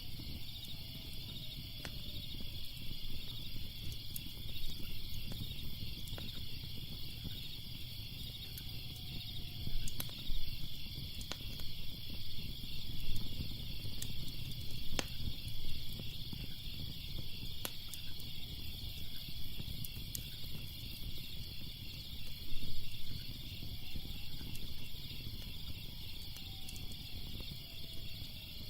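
Fire crackling with scattered sharp pops over a low rumble, set against a steady, pulsing chorus of chirping crickets.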